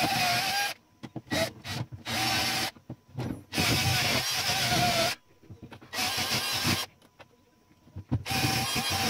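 Small handheld power tool run in short bursts, about five times, each about a second long and cut off abruptly, with a motor whine that dips slightly as it works.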